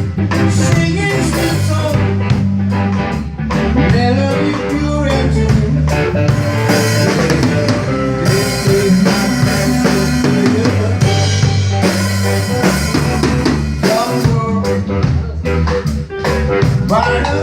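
Band playing a reggae tune on drum kit, bass and guitar, with steady drum hits and rimshots.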